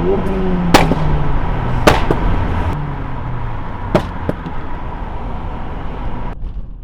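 Car engine revving up, then its pitch falling away, with three loud sharp pops in the first four seconds. The sound drops off abruptly near the end.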